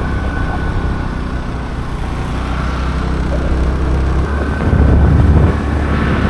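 Motorbike engine running steadily while riding, with road noise; it swells louder for about a second near the end.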